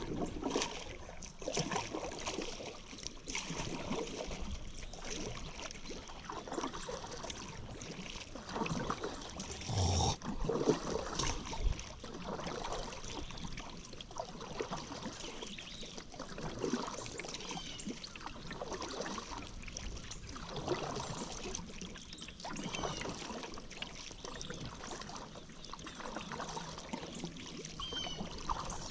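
Paddle strokes dipping and pulling through river water about every two seconds, with water trickling off the blade between strokes.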